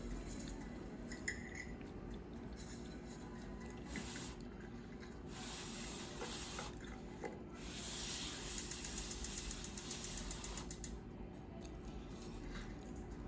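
Water running from a tap in several spells, starting and stopping, with a few faint clinks.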